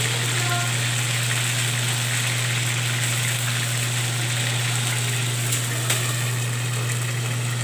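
Chicken pieces sizzling as they fry in hot oil in a metal pan, under a steady low hum. A short click about six seconds in as a glass lid is set on the pan.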